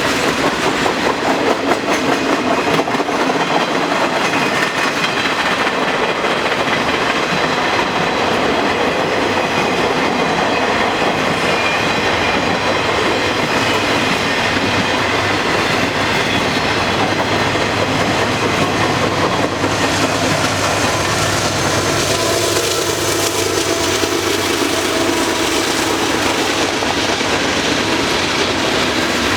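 Manifest freight train cars rolling steadily past, a continuous clatter of wheels on rail, with the high end getting louder about two-thirds of the way through.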